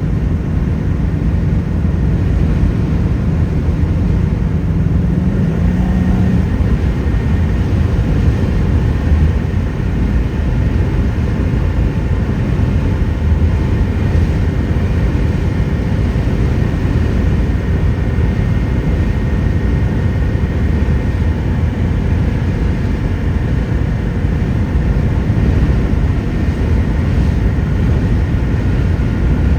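Steady low rumble of a 10-metre RV (campervan) under way, heard from inside the cab: engine, road and wind noise blended together, with a faint held hum over the first six seconds or so.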